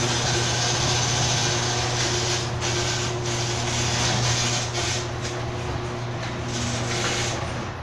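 Chamberlain HD400DM garage door opener running, its motor humming steadily as it drives the door up along the rail with an even mechanical rumble, stopping near the end.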